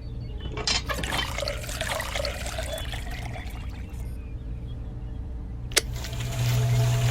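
Liquid pouring and trickling over a steady low hum. A single sharp click comes near the end, after which a steady low hum grows louder.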